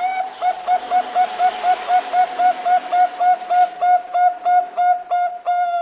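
Zebra dove (Bangkok perkutut) cooing: a fast run of short, even notes at one pitch, about four a second, running into a longer held note near the end.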